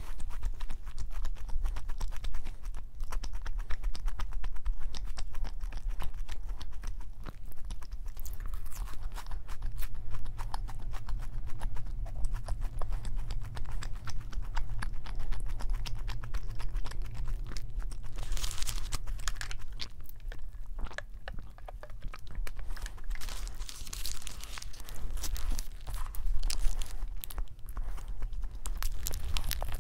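Close-up eating sounds of a crispy fried burger and cheese ball: continuous crunching and chewing, with the paper burger wrapper crinkling in a few brighter stretches, about two-thirds of the way through and again near the end.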